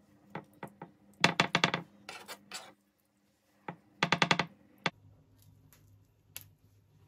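Small hard objects clattering: a few separate clicks, then two quick runs of sharp clicks, one about a second in and one about four seconds in.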